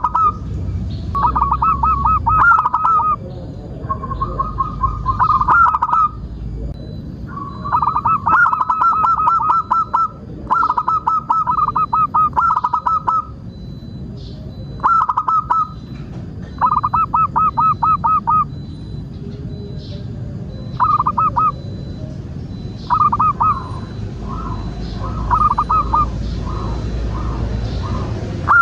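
Zebra dove (perkutut) calling: about a dozen bursts of rapid, even cooing notes, each one to two seconds long with short gaps between them.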